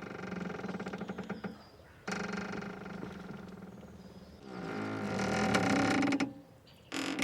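A boat's rope squeaking and creaking under strain in drawn-out pitched creaks of one to two seconds each, four in a row, the last two louder.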